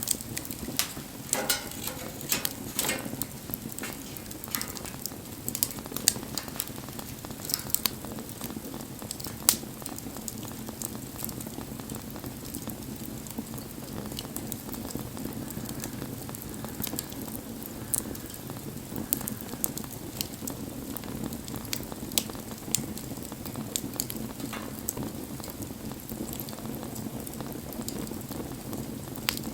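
Wood campfire burning: a steady hiss and rustle of flames with frequent sharp crackles and pops from the burning wood, busiest in the first several seconds, with one sharper pop about nine seconds in.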